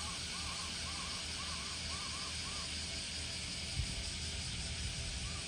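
A bird calling a quick series of short rising-and-falling notes, about two a second, that stops about two and a half seconds in, then gives a few fainter single notes near the end. A steady outdoor hiss and low rumble run underneath.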